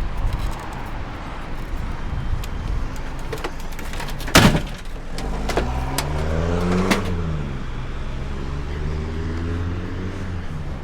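A car engine: a low rumble, then a motor note that rises in pitch and falls back to a steady hum, with a sharp knock about four seconds in.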